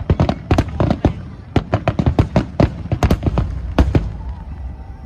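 Aerial fireworks going off in a rapid barrage of sharp bangs and crackles, several a second, that stops about four seconds in.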